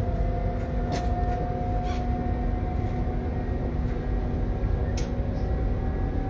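Interior running noise of a double-deck regional passenger train: a steady low rumble with a faint whine that rises slowly in pitch, and a couple of sharp clicks, one about a second in and one near five seconds.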